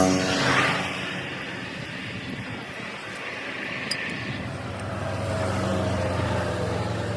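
A motor running, with a low steady hum that grows louder in the second half.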